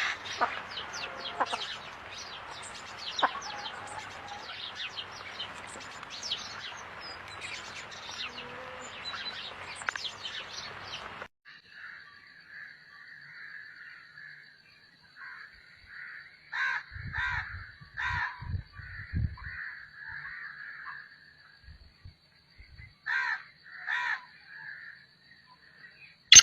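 Birds calling, in two clips: many quick chirps over a hiss for about the first eleven seconds, then after a cut a steady high tone under a run of calls, with louder calls in pairs about two-thirds of the way in and near the end.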